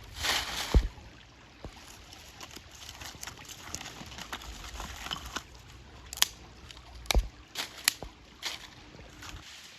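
Water sloshing and trickling, with a splash right at the start that ends in a knock. A few sharp clicks and knocks come later, about six to eight and a half seconds in.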